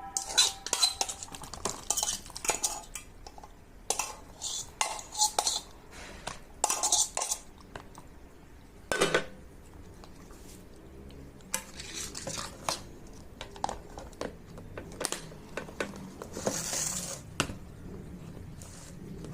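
Kitchen containers, lids and utensils being handled and set down: irregular clinks and knocks, one louder knock about halfway through, and a short rustle near the end.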